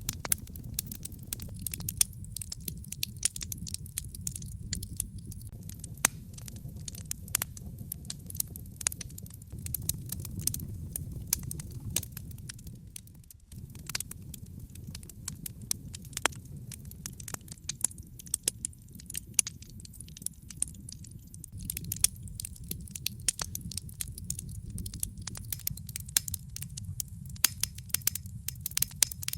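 Wood fire burning in a fireplace: frequent sharp crackles and pops over a steady low rumble of the flames. The sound dips briefly about halfway through, then carries on as before.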